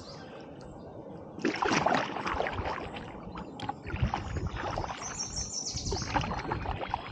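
Kayak paddle strokes splashing and dripping in the water, starting about a second and a half in.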